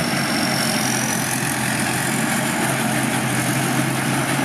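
Large rice combine harvester's engine and machinery running steadily under load, a continuous low mechanical drone with a faint high whine.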